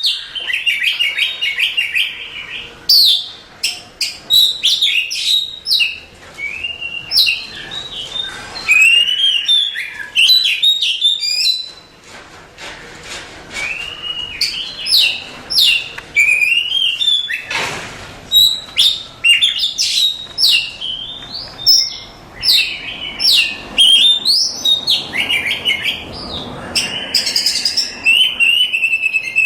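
Oriental magpie-robin (kacer, Copsychus saularis) singing a continuous, varied song of loud rising and falling whistles, quick trills and chattering notes, with only short pauses between phrases.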